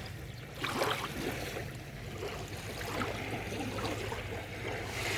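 Water lapping and trickling gently at the edge, with a few soft splashes.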